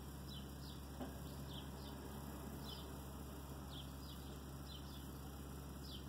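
Faint bird chirping: short high notes that fall in pitch, about one a second and sometimes in pairs, over a low steady hum.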